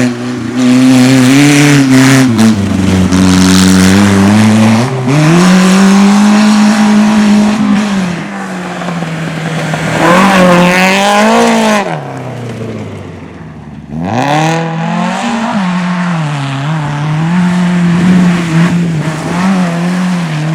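Rally car engine revving hard and falling back between gear changes as it is driven at speed. About two-thirds of the way through, the revs drop right down and it goes quieter, then it picks up sharply again.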